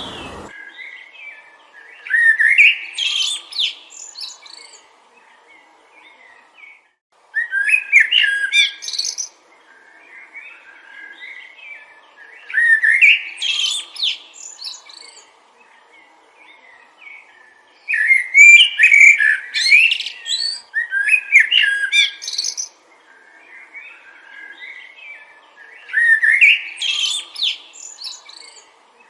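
A songbird singing: a loud, quick, warbling phrase of about two seconds, repeated roughly every five seconds, with softer twittering in between.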